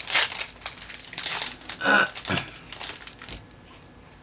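Foil wrapper of a Pokémon TCG booster pack crinkling and tearing as it is opened by hand, busiest in the first two seconds and dying away after about three seconds.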